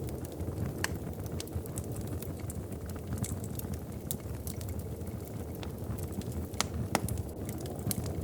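Wood fire crackling in a fireplace: irregular sharp pops and snaps over a steady low rumble, the loudest pop about seven seconds in.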